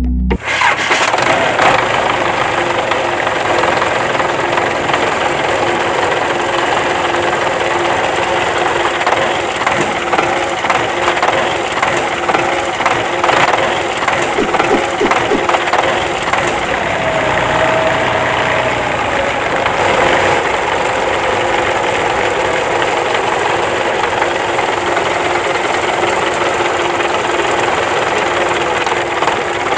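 Small motor of a homemade tractor water-pump model running steadily, an even mechanical whirr with a faint steady hum.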